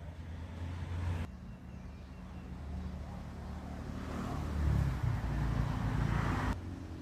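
A motor vehicle's engine running steadily, with a low hum that swells louder toward the end and cuts off suddenly about six and a half seconds in.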